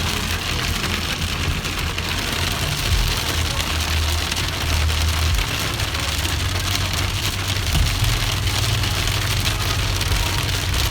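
Heavy thunderstorm rain beating down on surfaces in a dense, steady patter, with a low rumble underneath that swells about four to five seconds in.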